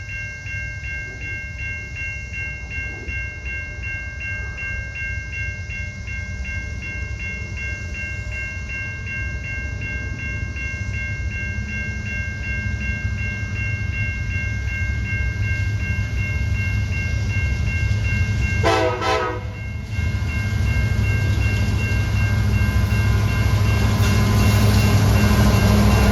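A railroad crossing bell rings steadily while a train approaches, its low rumble growing louder. About 19 seconds in there is one short blast of the train's horn.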